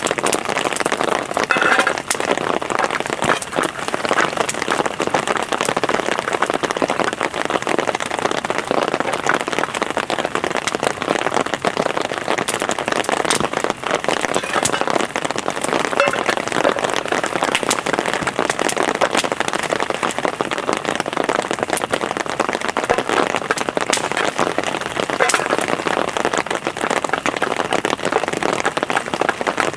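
Heavy rain falling steadily on a surface, with a dense stream of sharp individual drop hits.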